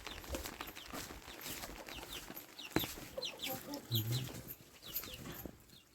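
Chickens clucking, with many short high falling chirps scattered through and a sharp click nearly three seconds in.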